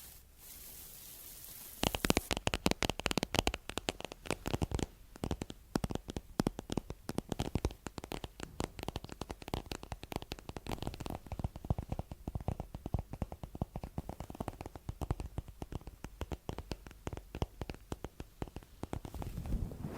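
Close-miked rapid crackling and tapping, dense and irregular, starting about two seconds in after a faint hiss.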